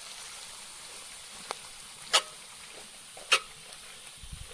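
Vegetables sizzling in a kazan (cast-iron cauldron) over an open fire as they are stirred, a steady frying hiss broken by two sharp knocks about two and three seconds in.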